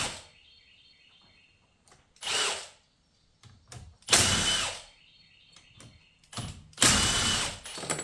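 A cordless power driver run in three short bursts of about half a second to a second each, spinning out 10 mm bolts.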